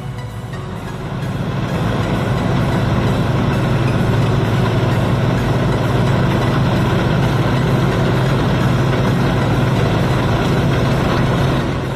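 Rice combine harvester engine running steadily, growing louder about a second and a half in.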